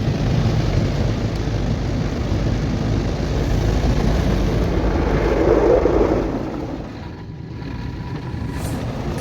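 Automatic car wash machinery working over a car, heard from inside the cabin: a loud, steady rush of brushes and water against the bodywork. It swells about five seconds in, drops away suddenly a second later, then builds back up.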